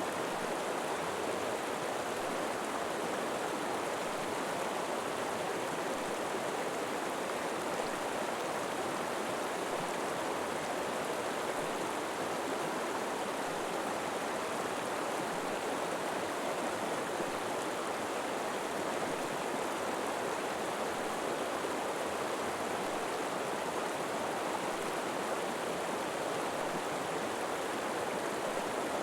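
River water flowing steadily over rocks, an even rushing with no pauses or changes.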